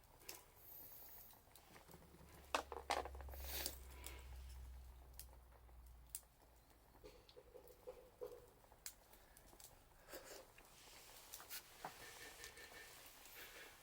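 Faint, scattered crackles and pops of a wood bonfire, with a few louder clicks close together about three seconds in and a low rumble underneath for a few seconds.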